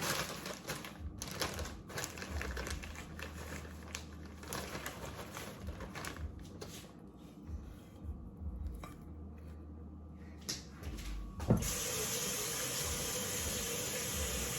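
Quiet scattered clicks of kitchen handling, then about two-thirds of the way through a kitchen tap is turned on with a click and water runs steadily into the sink.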